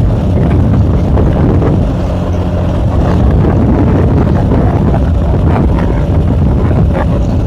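Small K Moto ATX motorcycle engine running while being ridden, with wind buffeting the microphone; the engine note eases briefly about two seconds in.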